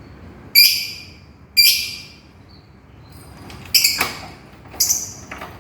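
Lovebird calling for its companion with shrill, piercing calls: two sharp single calls about a second apart, then a quicker run of several more in the second half.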